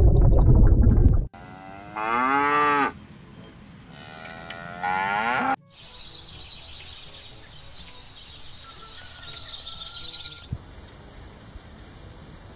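A loud low rumble cuts off about a second in, then a cow moos twice, each call drawn out for about a second with its pitch bending. After the moos come quieter outdoor ambience and faint high chirping.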